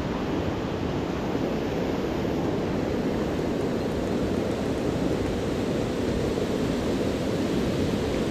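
Steady rushing noise of wind buffeting the microphone, heaviest in the low range and unchanging throughout.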